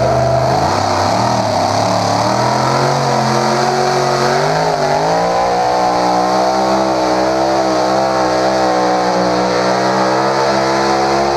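Pulling tractor's engine at full throttle hauling the weight sled down the track. Its pitch dips about a second in, climbs over the next few seconds, then holds high and steady with a slight waver.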